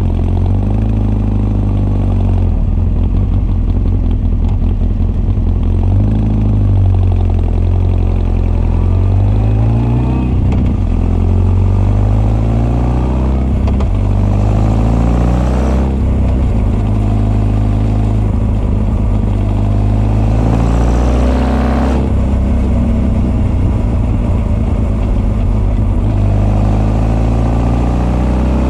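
Honda CB1300 SF inline-four with Keihin FCR41 carburettors and an r's gear Wyvern exhaust, ridden at moderate revs: carburettor intake and exhaust note together. The pitch climbs under throttle and then drops back several times, with the longest climbs about halfway through and again about three quarters of the way in.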